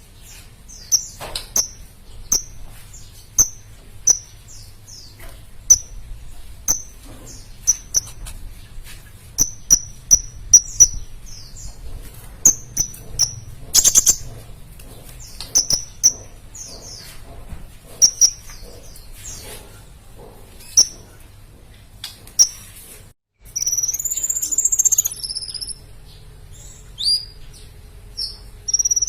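Sunbird song: a run of short, high, sharp chirps repeated about once or twice a second, with a longer, louder burst of rapid twittering a little past the middle.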